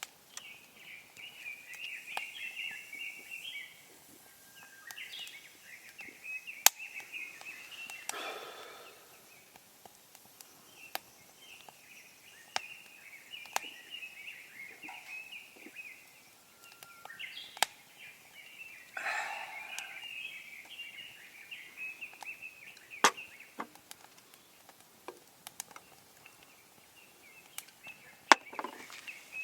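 A sharp knock or snap every few seconds, over a continuous high-pitched chirring or chattering.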